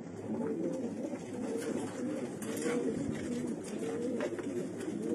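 Racing pigeons cooing, several calls overlapping without a break, with a few short clicks mixed in.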